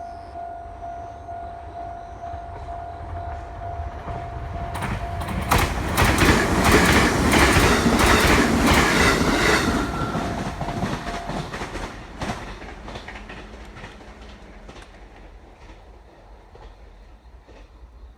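Japanese level-crossing alarm sounding while a train passes through the crossing. The train passes loudly from about five to twelve seconds in, its wheels clacking rhythmically over the rail joints, then fades away as it moves off.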